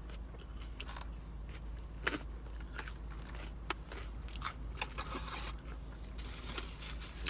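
Close-up mouth sounds of someone chewing and crunching salad, with scattered small clicks of a fork in a takeout container.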